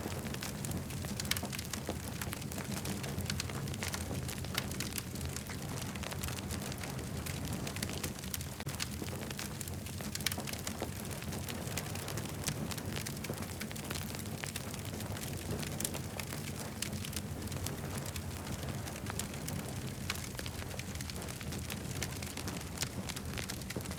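Campfire burning and crackling, with frequent sharp pops and snaps over a steady low rumble.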